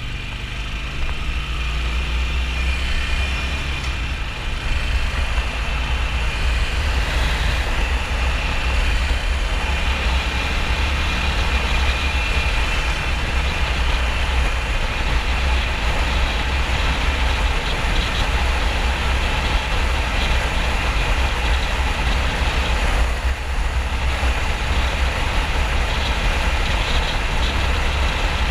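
2009 Harley-Davidson XL1200N Sportster's 1200 cc V-twin running at motorway speed under a steady rush of wind and road noise, with the engine note shifting in the first few seconds before settling.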